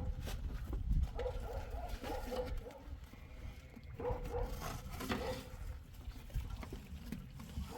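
An animal calling in short, repeated pitched cries, in several runs, over a low rumble.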